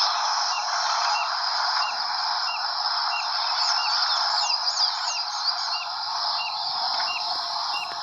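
Bird calls over a dense, steady chorus: a short hooked note repeats about twice a second, and a quick run of looping whistles comes through in the middle.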